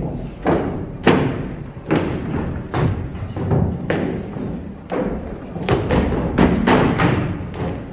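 A series of heavy thumps, about a dozen, at uneven spacing and coming faster in the second half.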